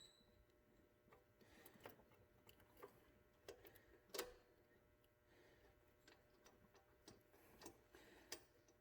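Faint, scattered clicks and light metal taps as the alternator mounting bolt is fed into place by hand, with the loudest tap about four seconds in.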